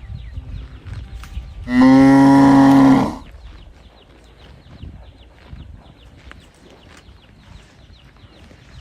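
A calf moos once, a single loud call lasting just over a second about two seconds in. It is calling for its mother.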